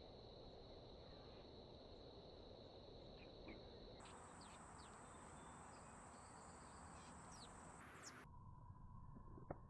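Faint backyard ambience: a steady high insect buzz with a few short bird chirps. The background changes abruptly twice, and there is one sharp click near the end.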